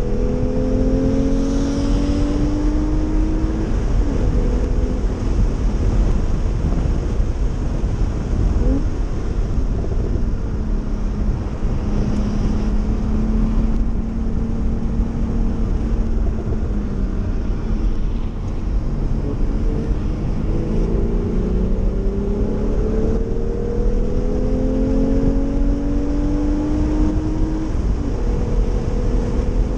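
Porsche 911's flat-six engine heard from inside the cabin at track speed, its pitch climbing through the revs in several sweeps with gear changes between them, over a steady low rumble.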